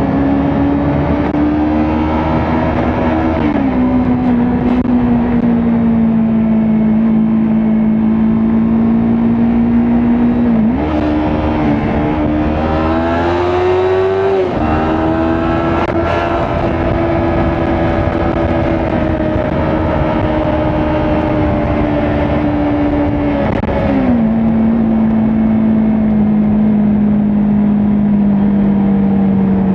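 Kawasaki Ninja 400's parallel-twin engine pulling at expressway speed, heard from the rider's position. The engine note holds steady and drops sharply with upshifts about 3.5 and 24 seconds in. About 11 seconds in it jumps up and then climbs as the bike accelerates.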